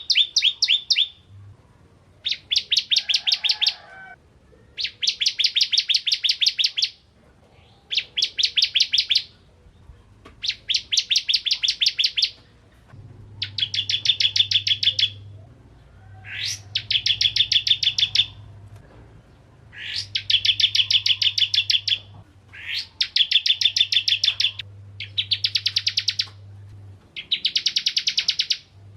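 A ciblek kristal, a prinia, singing: about eleven rapid, high, rattling trills, each lasting one to two seconds, with short pauses between them. A faint low hum runs underneath.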